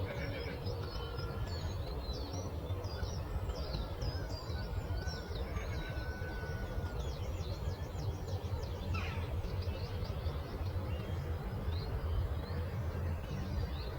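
Small songbirds chirping rapidly in a dense chorus of short high notes, thickest over the first ten seconds and thinning after, over a steady low rumble.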